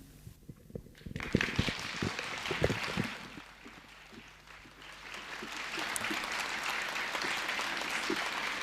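Audience applauding. It starts about a second in, dips briefly in the middle, then swells again and carries on steadily.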